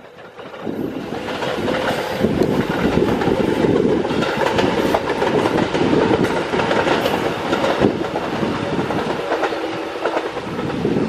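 JR East 205 series 3100-subseries electric multiple unit running past, its wheels clattering over the rails. The noise swells in about a second in and stays loud and steady.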